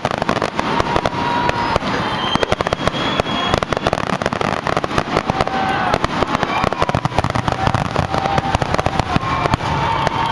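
Rapid, dense barrage of aerial fireworks bangs, many a second without a break, with high whistling tones over them: a grand finale.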